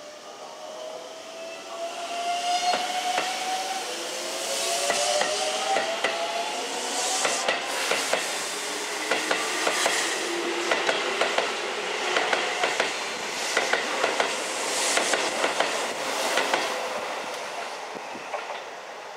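Keisei 3700-series electric train pulling out and accelerating. Its traction motors give a whine of several tones that climbs in pitch over the first several seconds. Then its wheels click rapidly over the rail joints, and the sound fades near the end as the train runs away.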